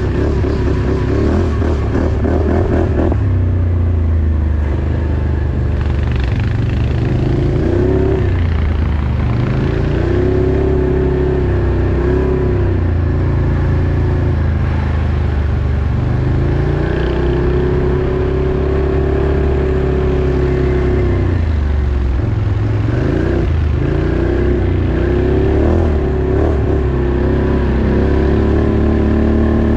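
Off-road vehicle engine running loudly, its pitch rising and falling again and again as it revs up and eases off.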